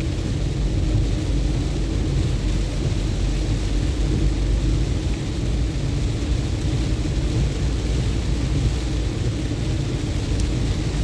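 A car driving on a wet road in the rain: a steady low rumble of engine and tyres with the hiss of rain and spray.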